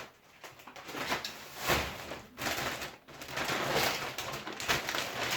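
Shopping bags and grocery packets rustling and crinkling as they are handled, in short irregular bursts.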